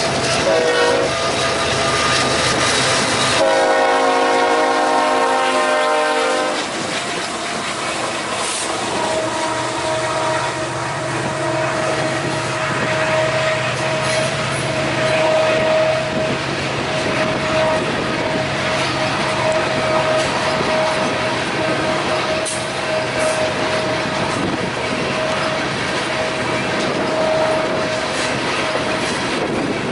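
Freight train passing. The locomotive's horn sounds one blast about three and a half seconds in, lasting about three seconds. Then the cars roll by with wheels clattering over the rail joints and a steady high wheel squeal.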